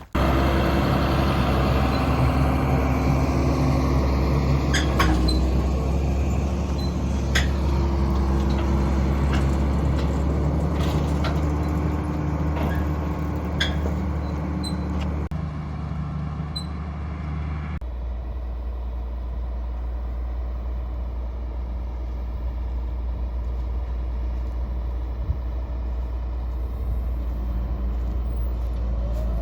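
Large diesel engine running steadily, with scattered clicks and rattles over the first half. The sound changes abruptly about 15 seconds in and again about 18 seconds in, then settles into a quieter, steady hum.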